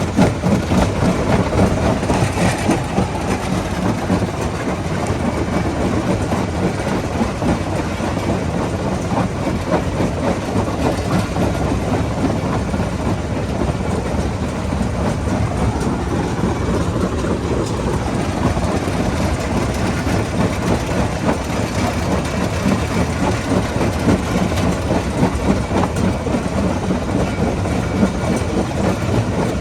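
Stone crusher running and breaking rock: continuous dense rattling and knocking of stone over a steady heavy engine drone.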